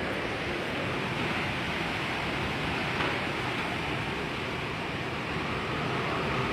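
Heavy rain with strong wind, a steady, even rushing noise.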